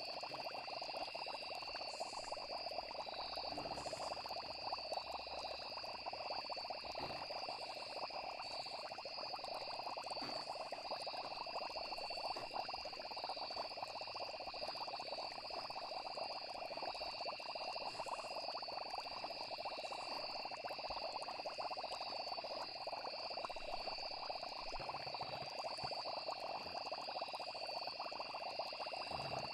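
Continuous night chorus of frogs with insects trilling steadily in the background.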